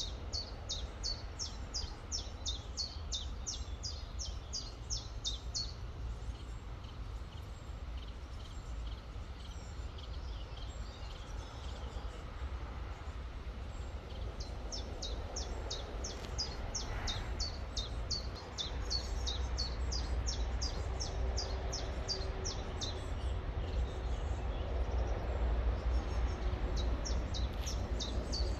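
A small songbird repeats a short, high note that slides downward, about three times a second, in long runs that stop and start again. Under it runs the steady rush of a river with a low rumble.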